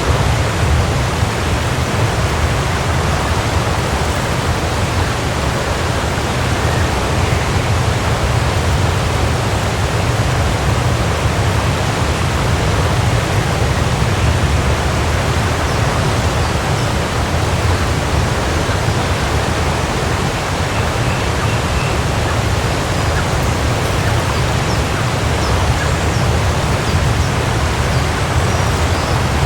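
Waterfall: water pouring and crashing in a steady, unbroken rush with a deep low rumble.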